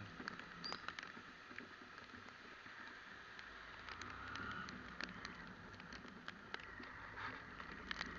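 Steady hiss and rumble of riding a motorcycle on wet road in the rain, with scattered ticks of raindrops striking the microphone.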